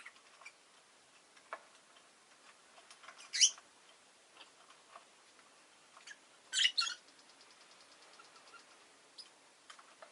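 Rosy-faced lovebird giving a sharp chirp about three seconds in and a short cluster of louder chirps near the middle, between soft scattered clicks and ticks.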